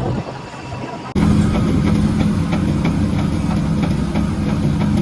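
Concrete truck's diesel engine running at a steady speed, with a quick regular ticking over it. The sound becomes suddenly louder about a second in.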